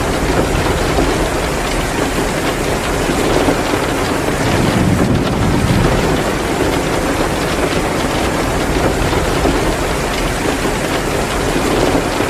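Heavy rain pouring steadily, with the crackle of a wood fire in a fireplace mixed in, swelling briefly in a deeper rush about five seconds in.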